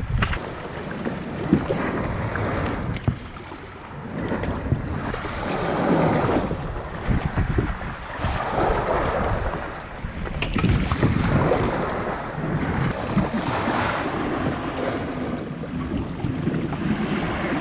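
Strong gusty wind buffeting the microphone, with choppy waves washing and splashing against a kayak; the noise surges and eases every few seconds, with a few faint knocks.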